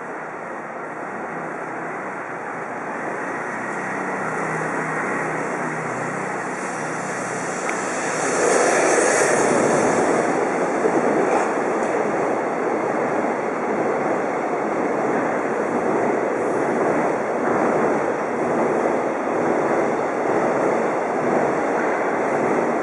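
Freight train hauled by an EF65 DC electric locomotive passing on the viaduct overhead: a steady rumble of wheels on rails that grows louder, jumps up about eight seconds in, and stays loud.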